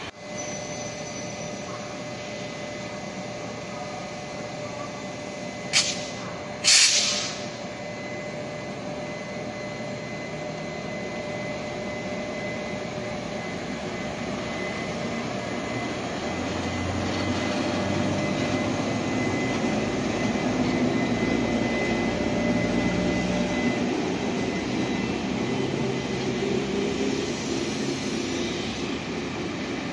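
Taiwan Railways E200-class electric locomotive E226 hauling a Chu-kuang express as it departs the station, a steady rolling train din with faint steady tones that grows louder in the second half. Two short, sharp noises about a second apart near the start are the loudest sounds.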